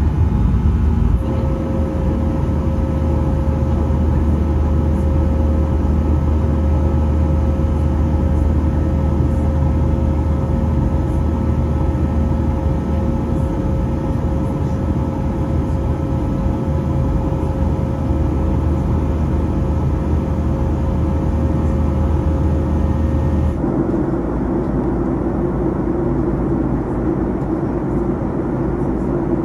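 Cabin noise of a Boeing 737-800 with its CFM56 engines running: a steady low hum with a constant whine above it and a rushing air bed. The sound changes abruptly near the end, the hum dropping away and a different steady rumble taking over.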